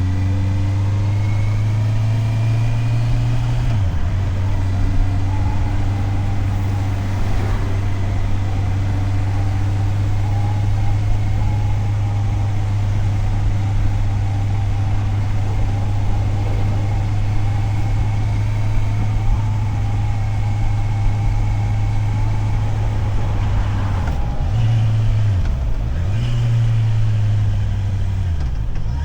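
Motorcycle engine running steadily under way, with a broad hiss of road and wind noise above it. The engine note dips briefly about four seconds in and several times near the end, as the throttle is eased or gears are shifted.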